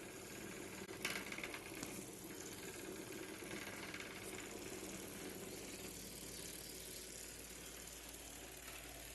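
Small DC motor spinning a homemade toy helicopter's rotor with a steady whirr. There is a brief clatter about a second in.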